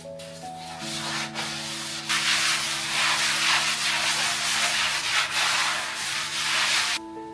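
Scrubbing: repeated rubbing strokes against a hard surface during cleaning. Quieter at first, loud from about two seconds in, and stopping suddenly near the end, over soft background music with sustained notes.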